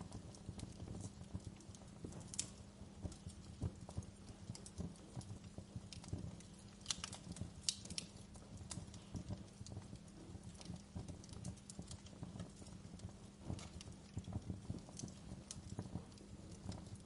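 Wood fire crackling: a dense, irregular stream of small crackles over a low rumble, with a few sharper pops, a cluster of them about seven to eight seconds in.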